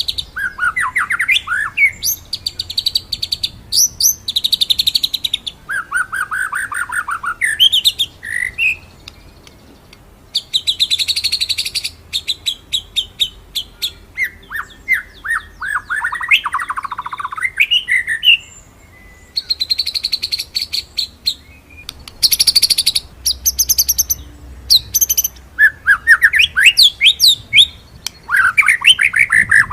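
White-rumped shama (murai batu) singing in bursts: dense, high rapid trills alternating with fast rolling runs of sweeping whistled notes, broken by brief pauses.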